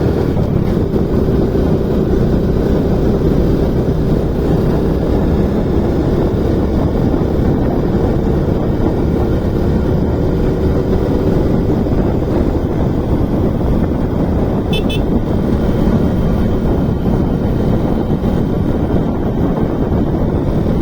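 Motorcycle riding noise: steady engine running under a dense rush of wind and road noise. About fifteen seconds in there is a brief double beep, like a horn toot.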